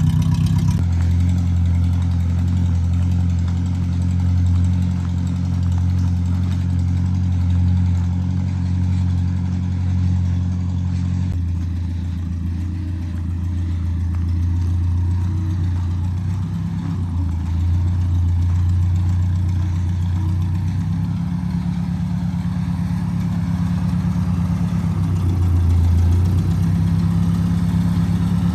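Tractor engine running steadily, a low drone whose note shifts abruptly several times.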